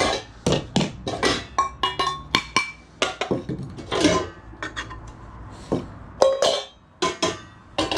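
Metal pots and pans clanking and clinking together as they are handled, many sharp knocks, some ringing briefly.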